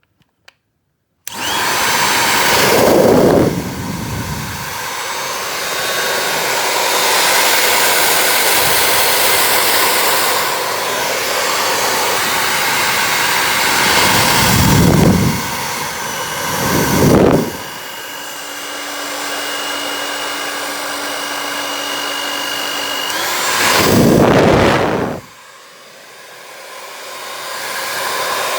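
Hiveseen 2400W handheld hair dryer: a couple of small clicks, then it starts about a second in and blows loudly and steadily, its sound surging briefly several times. A steady whine runs for a few seconds past the middle, and near the end the blowing drops sharply, then builds back up.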